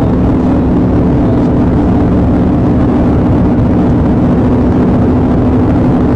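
Police patrol car driving fast: a steady engine drone with road and wind noise.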